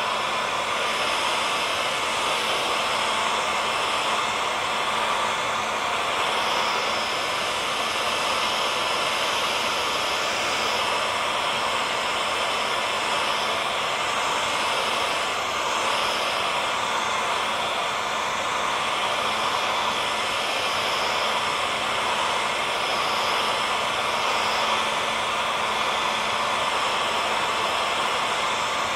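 Hair dryer running steadily at an even level: a continuous rush of blown air with a faint steady hum from the motor underneath.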